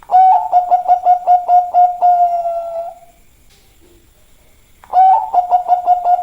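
Zebra dove (perkutut, Bangkok strain) cooing: a quick run of pulsed notes that runs into a drawn-out coo, lasting about three seconds. A second song starts about five seconds in.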